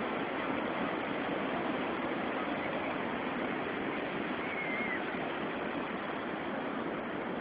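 Pacific Ocean surf washing onto the beach: a steady rushing noise.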